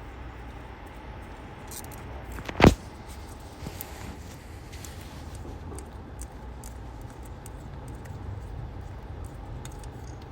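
Hand tools and small screws being handled while the ignition coil pack screws are undone: one sharp metallic clank about two and a half seconds in, then a few light clicks.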